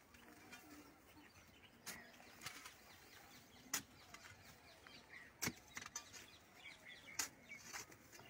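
Quiet outdoor ambience with faint bird chirps and four sharp knocks, evenly spaced just under two seconds apart.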